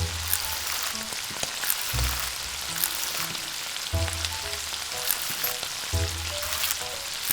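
Hot cooking oil sizzling and crackling steadily in a small pan as food fries, with frequent sharp pops.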